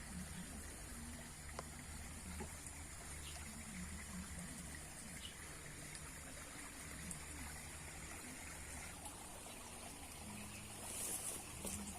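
Faint, steady trickling water with a few light ticks, and a short hiss near the end.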